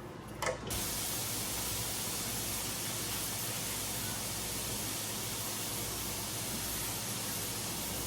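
Kitchen tap turned on about a second in, water running steadily into the sink with an even hiss.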